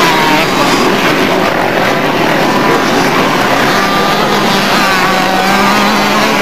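Motocross motorcycle engines revving on a dirt track, their pitch rising and falling as the riders work the throttle, with a steadier engine note in the later part.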